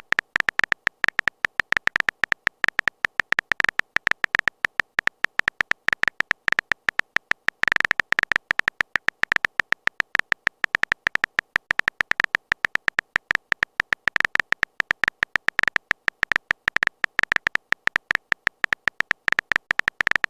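Phone keyboard typing sound effect: a long run of rapid, evenly spaced clicks, about ten a second, with a bright high ring to each.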